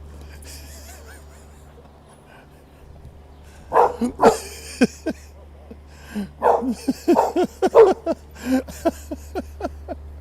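A dog barking: a couple of loud barks about four seconds in, then a quick run of many short barks, over a low steady hum.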